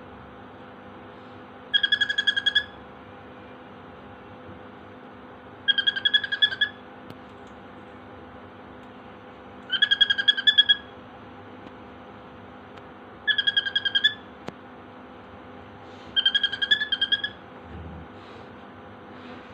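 A cockatiel imitating a mobile phone alarm: five bursts of rapid, evenly pitched beeping, each about a second long, repeated every three to four seconds.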